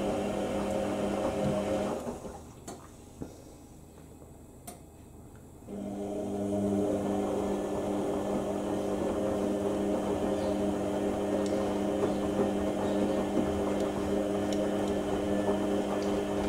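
IKEA RENLIG IWM60 washing machine's drain pump humming steadily as the machine empties between the wash and the first intermediate spin. The pump cuts out about two seconds in, a few clicks come from the machine, and it starts again about six seconds in.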